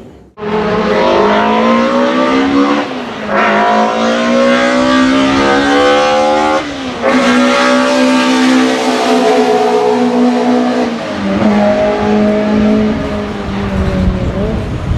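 BMW M3 E30 DTM race car's four-cylinder engine accelerating hard. Its pitch climbs steadily and drops sharply at each upshift, about three, six and a half and eleven seconds in, then runs steadier near the end.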